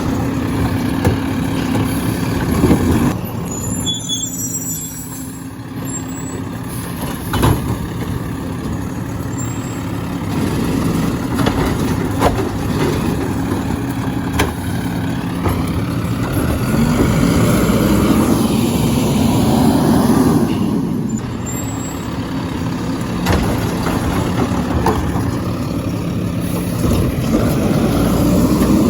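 Garbage truck engine running steadily, with a few sharp knocks and clanks. The engine noise swells for a few seconds about two thirds of the way through.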